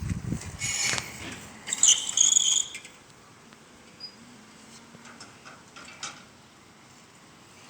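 A person whistling one steady, high, clear note for about a second, a couple of seconds in, just after a short breathy rush of air.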